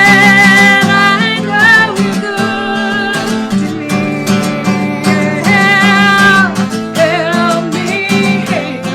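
Music: strummed acoustic guitar chords under a wavering, held melody line.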